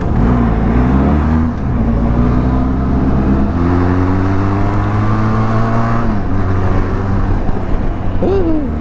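Motorcycle engine accelerating hard, its pitch climbing with a drop at each gear change, then easing off about six seconds in.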